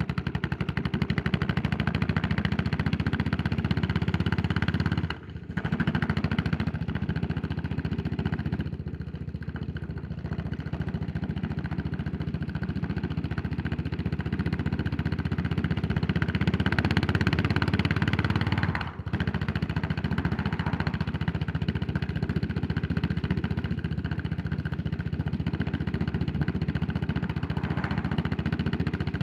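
Yamaha SR400's air-cooled single-cylinder four-stroke engine running steadily under way. The engine note drops out briefly twice, about five seconds in and again near 19 seconds.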